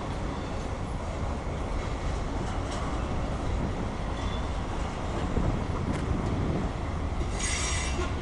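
Freight train cars rolling past with a steady rumble and scattered wheel clicks over the rails. A brief high-pitched wheel squeal comes near the end.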